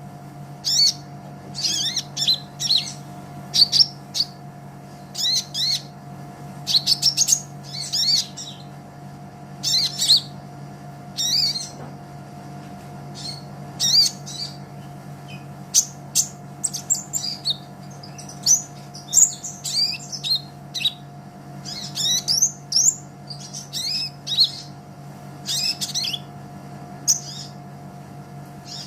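A sunbird, the 'kolibri ninja' of Indonesian birdkeepers, singing: quick bursts of high, sharp chirps and twittering phrases, several every couple of seconds, with brief pauses between them. A steady low hum runs underneath.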